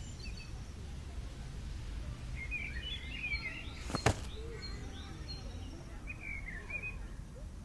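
Small birds chirping in short scattered calls over a steady low outdoor rumble, with a single sharp click or knock about four seconds in.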